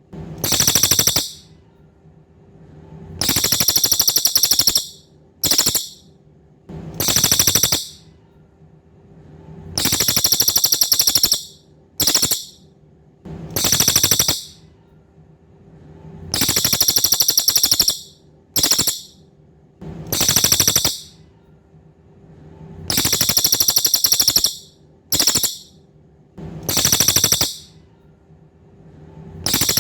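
Cililin bird singing: a high, rapid, buzzy trill repeated in phrases of one to two seconds, each long phrase followed by a short one, about every three seconds. A faint steady hum lies beneath.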